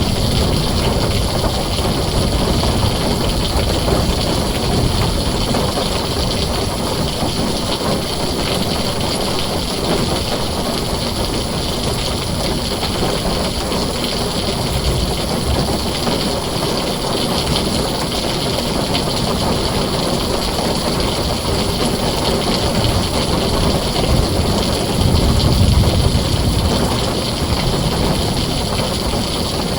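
Heavy rain pounding a tin roof as a dense, steady hiss, with a low rumble of thunder swelling briefly near the end.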